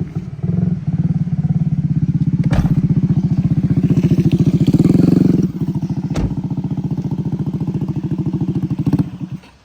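Moped engine running loud and close, revving up to a peak about five seconds in, easing off a little, then dying away about nine seconds in.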